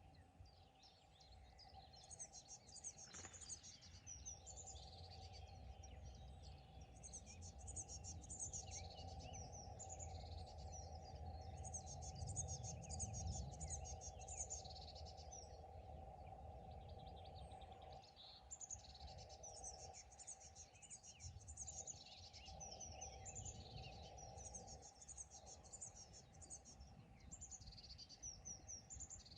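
Faint birdsong: a small bird singing short, high twittering phrases every few seconds. Underneath is a steady faint hum and a low rumble that swells in the middle.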